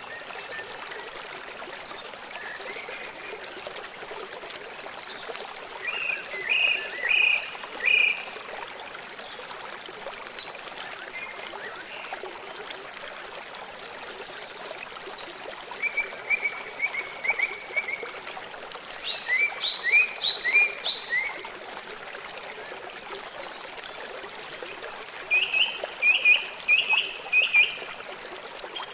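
Water running steadily in a forest stream, with a songbird singing four short phrases of quick repeated notes over it.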